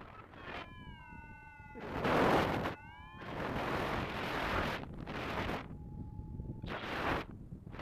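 Strong gusts of wind buffeting the microphone in loud noisy surges, with several drawn-out high calls between them: one gliding slightly down, a short one gliding up, and a steady note near the end.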